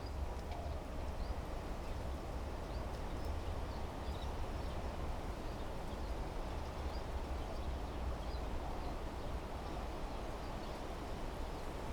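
Wind blowing through desert trees, a steady rustle over a low rumble, with faint short bird chirps scattered throughout.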